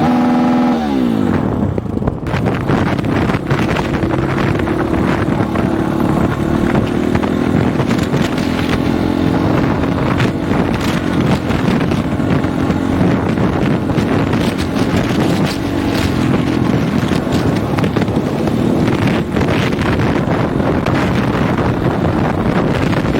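Single-cylinder four-stroke dirt bike engine running under way on a dirt trail. Its note drops in the first second, then runs fairly steady. Heavy wind buffets the microphone throughout, with scattered knocks from the rough ground.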